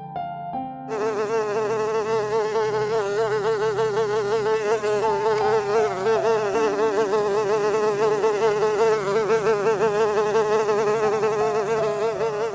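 A flying insect buzzing close to the microphone: a steady, wavering buzz that starts about a second in and keeps going.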